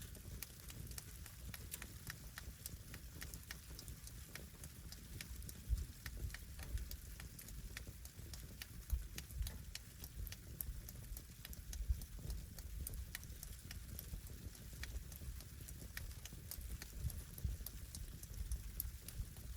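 Wood fire burning, crackling with frequent irregular sharp pops and snaps over a low steady rumble.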